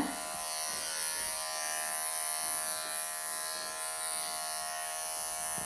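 Electric pet clippers buzzing steadily as they shave a Persian kitten's matted fur.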